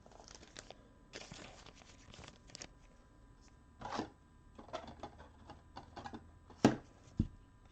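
Handling of a trading card and plastic card holders: soft rustling and scattered light clicks, with one sharper tap near the end.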